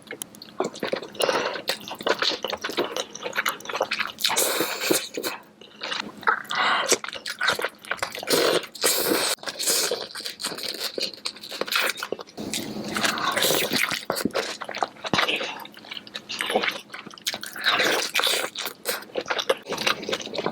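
Close-miked eating: wet chewing and mouth smacking on soft-boiled eggs, with many small irregular clicks and squelches.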